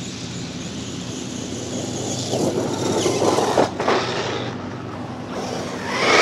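A radio-controlled car driving nearby, its electric motor whining and tyres running over the ground. It gets louder about two seconds in, with a brief rise in pitch around the middle, then fades and builds again near the end.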